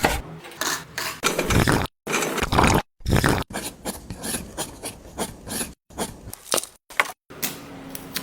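Scraping and rubbing of small tools and materials in miniature house building, in short clips that cut off abruptly one after another, with a few sharp clicks near the end.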